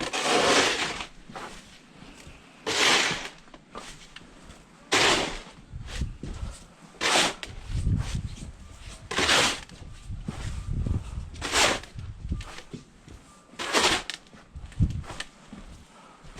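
Snow shovel scraping and pushing through deep snow in steady strokes, seven scrapes about two seconds apart.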